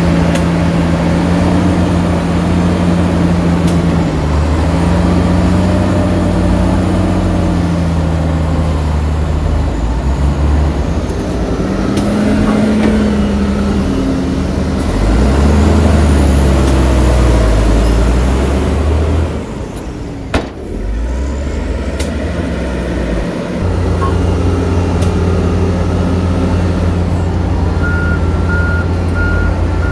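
Heavy diesel earthmoving machinery working: the engine revs up and down under load, with one sharp click in a quieter moment about two-thirds of the way through. Near the end a reversing alarm starts beeping steadily.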